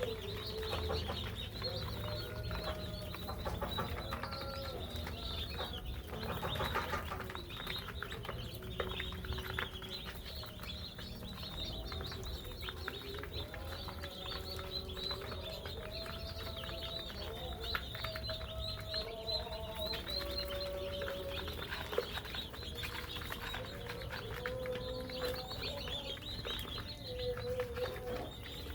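A brood of day-old broiler chicks peeping constantly, many high calls overlapping.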